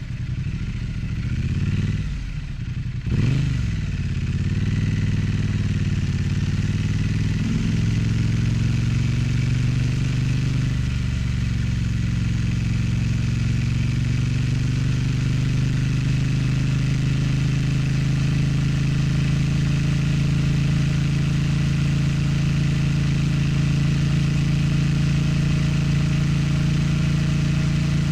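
Triumph Street Twin's 900 cc parallel-twin engine and exhaust heard from on board while riding. The note drops briefly about two to three seconds in, then rises in pitch for several seconds as the bike accelerates. It then settles into a steady drone at constant speed.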